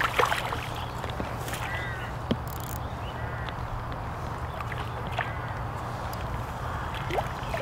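Birds calling outdoors, short arching calls repeated every second or two, over a steady low rumble of wind on the microphone. A couple of short sharp sounds stand out near the start.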